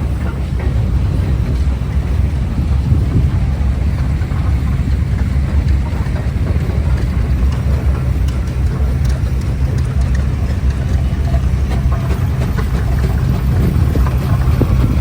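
An engine idling steadily, low-pitched and even.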